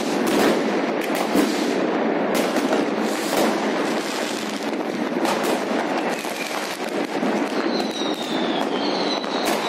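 Massed consumer fireworks: a continuous din of firecracker bangs and rocket bursts, with sharper single bangs throughout. Near the end come several whistles, each falling slightly in pitch.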